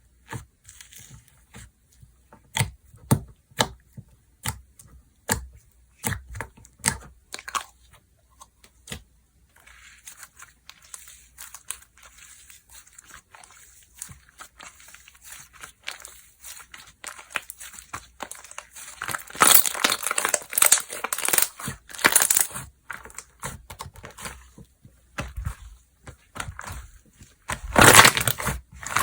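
Slime being squeezed, poked and stretched by hand. For the first several seconds it makes sharp separate clicking pops; later come denser stretches of crackling, crunchy sound.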